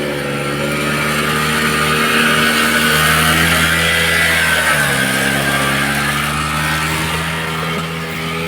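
Muravey cargo motor scooter's two-stroke single-cylinder engine running under way. Its pitch drops about five seconds in and holds steady at the lower note.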